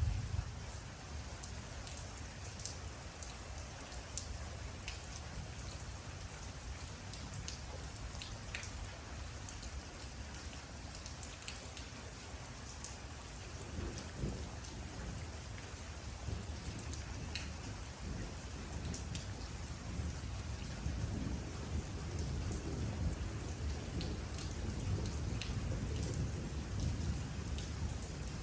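Steady rain falling, with individual drops ticking sharply on a surface. A low rumble swells in the second half.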